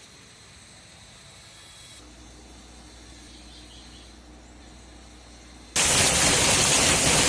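Faint steady outdoor hiss, then nearly six seconds in an abrupt cut to a loud, steady rushing noise.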